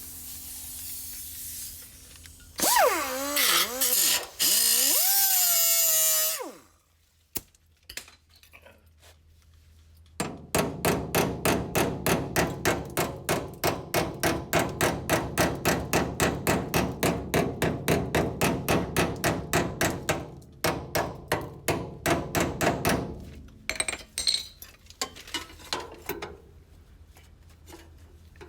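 Power tool working on auto body panels. Its pitch sweeps up and down for a few seconds, then after a pause it runs in a long, even series of pulses, about three a second, for over ten seconds.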